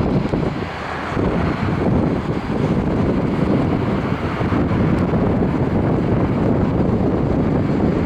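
Wind buffeting the microphone over a steady low rumble of jet aircraft engines.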